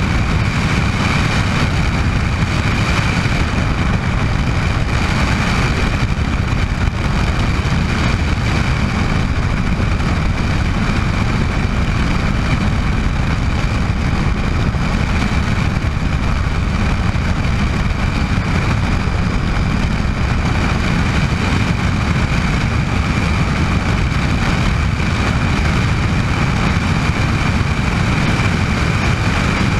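Bell 206 JetRanger helicopter in flight: a steady high turbine whine over a constant low rotor and engine rumble.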